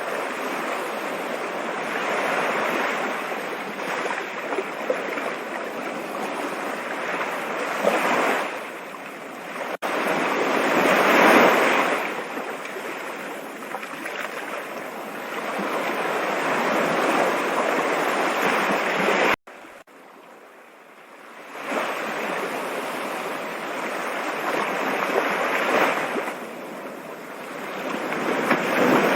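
Rushing water: a steady wash that swells and ebbs every several seconds. It breaks off abruptly twice, about ten and about twenty seconds in, and after the second break it stays quieter for a couple of seconds before building again.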